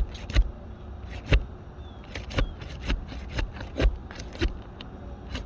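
Asphalt roof shingles being pried loose from their sealant strip: a tool scraping and rubbing under the stuck shingle, with about five sharp cracks as the seal gives.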